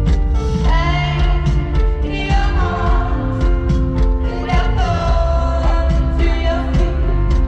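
Live pop song: a woman's lead vocal holding and bending long notes over a full band, with regular drum hits and heavy bass.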